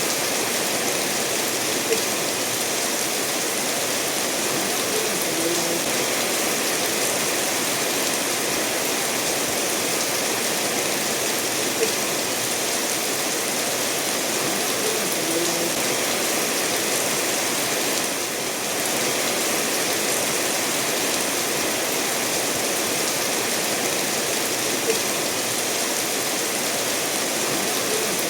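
Steady rain falling together with a stream flowing over stones, an even hiss throughout, with a few brief louder clicks.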